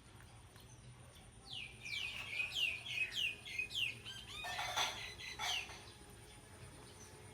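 Animal calls: a quick run of about eight high chirps, each falling in pitch, followed by two or three fuller squealing calls.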